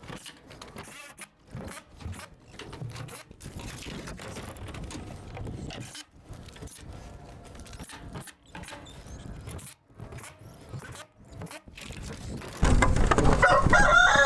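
Scattered scraping, clicking and rattling from work at the coop. Near the end a rooster starts a loud crow.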